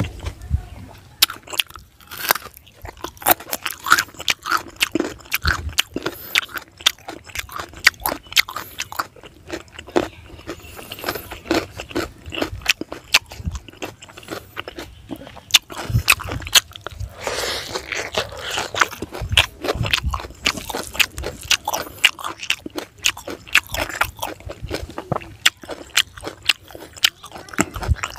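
A person biting and chewing crunchy food, carrot and leafy greens: many sharp crunches a second and chewing, going on without a break.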